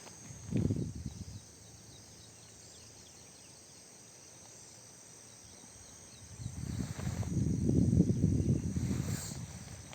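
Insects chirring steadily at a high pitch in the background. A brief low rumble comes about half a second in, and a longer low rumble swells from about two-thirds of the way through, peaks and fades near the end.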